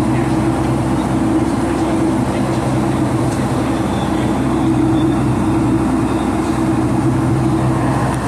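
Boeing 757-200's jet engines and airflow heard from inside the passenger cabin: a steady, loud rumble with a constant low hum and no change in level.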